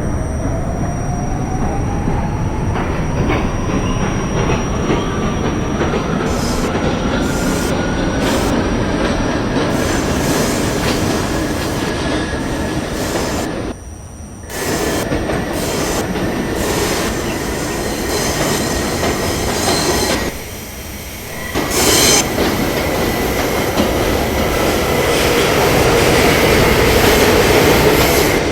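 R68A subway train picking up speed: the traction motor whine rises steadily in pitch for about ten seconds, then holds high over the constant rumble and clatter of the wheels on the rails. The noise drops off briefly twice, about halfway and about two-thirds of the way through.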